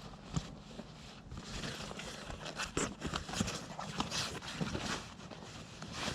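Irregular rustling and scraping with scattered soft knocks, from camping bedding being handled and laid out in a swag.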